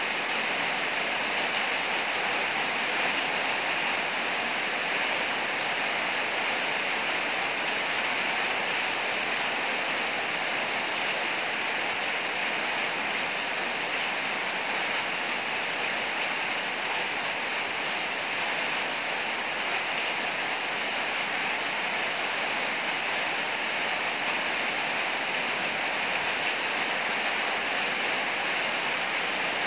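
Heavy rain falling in a steady, unbroken downpour, an even hiss with no thunder.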